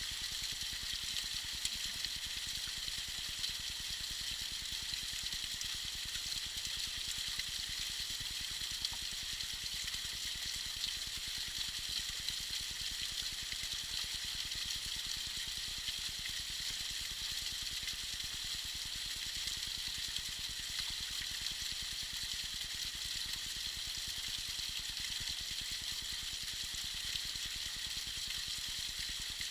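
Tiny icy waterfall splashing steadily: an even, high hiss of falling water with small splashes scattered through it.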